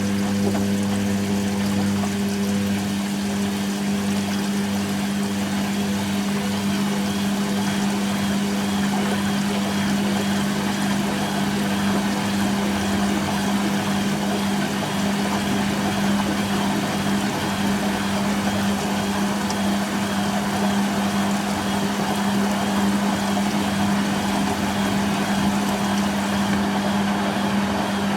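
Hoover Quattro Easylogic AE130 washing machine running steadily at speed, most likely in a spin, with a constant motor tone over a rushing whoosh from the drum. A lower hum fades out in the first few seconds.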